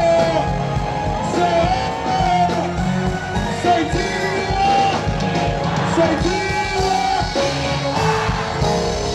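Live concert music with a steady beat and sung vocals, with yells and shouts from the crowd.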